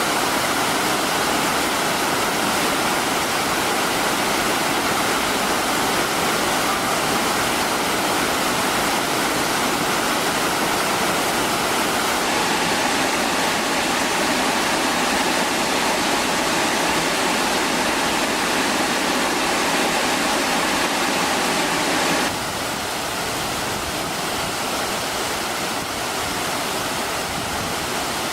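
Ryūmon Falls on the Egawa river: the steady rush of falling water, with abrupt shifts in tone about twelve and twenty-two seconds in.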